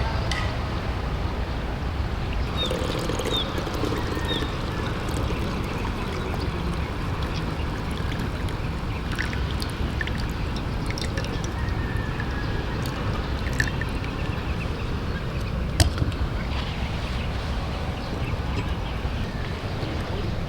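Steady wash of sea waves on a beach, with a few short bird chirps and scattered sharp clicks, the loudest about sixteen seconds in.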